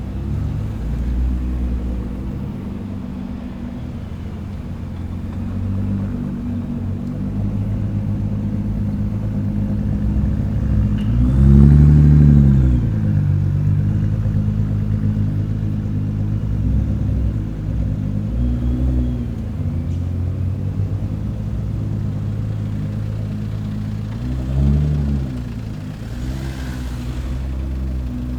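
Nissan GT-R engine idling with a low rumble. It revs up and drops back about twelve seconds in, and blips again more briefly near the end.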